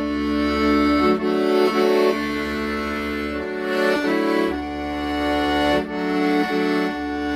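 Accordion playing a slow melody in sustained treble notes over low bass notes, each held for about a second.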